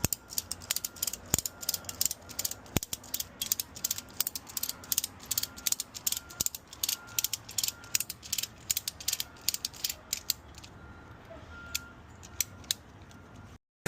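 Fast, irregular run of sharp mechanical clicks, like a ratchet being worked, stopping about a second before the end.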